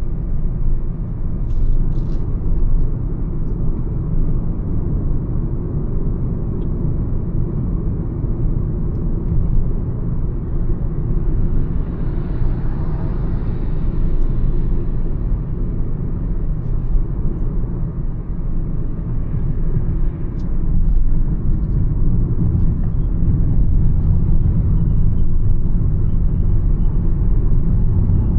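Mahindra XUV 300 driving at highway speed: a steady low rumble of road and wind noise, with a hiss that swells and fades around the middle.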